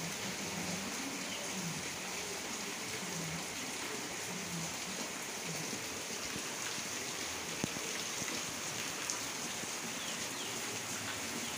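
Heavy rain falling steadily on a yard and trees: an even hiss, with a single sharp knock about seven and a half seconds in.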